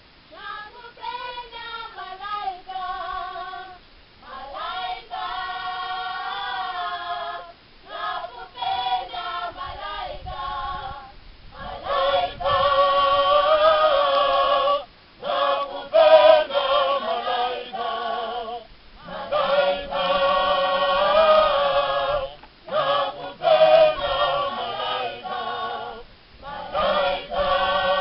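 A choir singing without accompaniment, the voices wavering in long phrases with short breaks between them.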